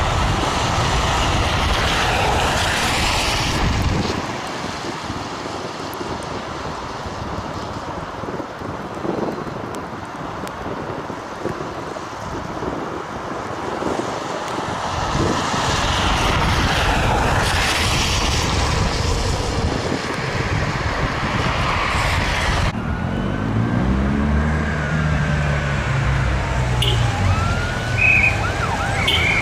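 Road traffic passing steadily. Near the end, emergency sirens wail with rising and falling tones while a vehicle engine accelerates.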